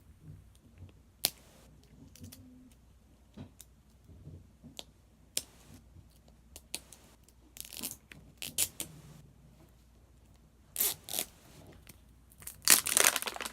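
Plastic wrapping being torn and peeled off a layer of an L.O.L. Surprise doll ball: scattered crinkles and rips, with a louder, denser burst of crinkling near the end.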